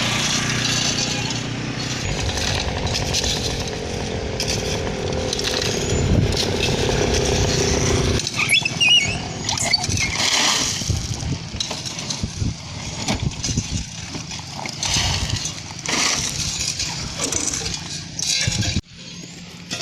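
Hino concrete mixer truck's diesel engine running steadily at a construction site. About eight seconds in, the sound changes suddenly to irregular knocks and clatter over the engine.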